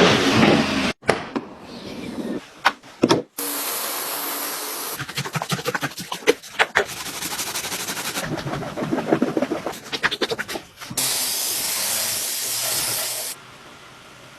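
Car-cleaning sounds in short cuts: a steady spray hiss comes on twice for a couple of seconds each, between stretches of rapid clicking, crackling and rubbing.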